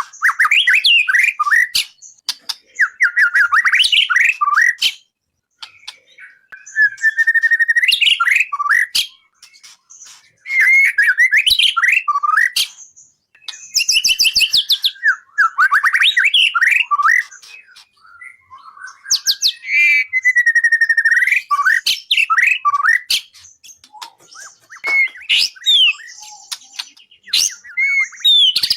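A songbird singing loud, varied song in bursts of a few seconds each, made of whistled phrases and rapid chirps, with short pauses between bursts. This is masteran: song played to tutor a white-rumped shama (murai batu) in its singing.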